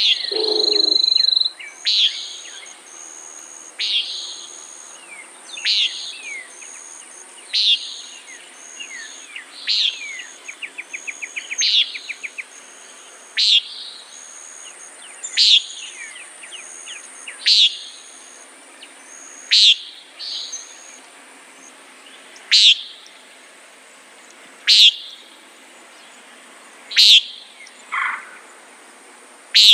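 Common nighthawk giving its short nasal peent call over and over, about once every two seconds, with a steady high insect trill underneath.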